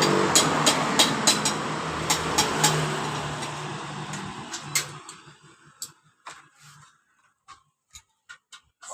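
Honda Vario scooter engine running steadily with sharp clicks over it, fading away over about five seconds and leaving only a few scattered clicks.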